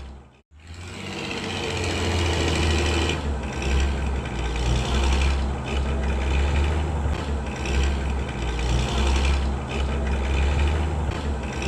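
Truck engine running steadily with a deep hum; the sound cuts out sharply about half a second in, then comes back and runs on.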